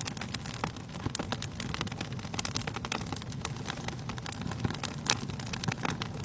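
Fire burning in a fireplace, crackling with many irregular sharp pops over a low, steady rumble of the flames.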